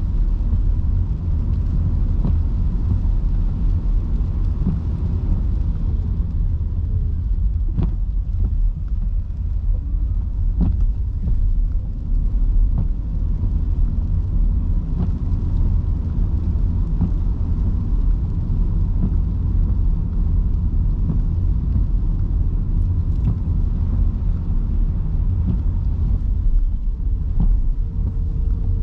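Electric car driving on wet city streets in heavy rain: a steady low rumble of tyres and road, with scattered light ticks. A short steady tone sounds near the end.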